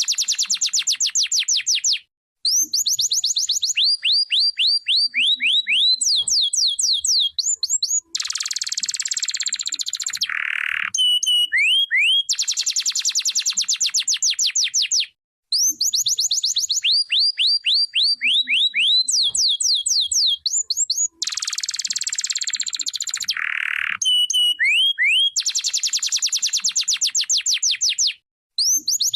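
Domestic canary singing: long runs of fast trills, each built of rapidly repeated high notes that sweep up or down, with denser buzzy rolls between them. The song breaks off briefly twice, then resumes.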